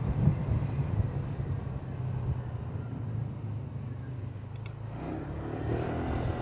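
Motorcycle engine running steadily while riding, with wind on the microphone; the engine grows a little louder near the end.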